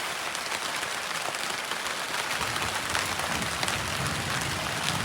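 Steady rain falling, a dense patter of many drops. A low rumble joins a little over two seconds in.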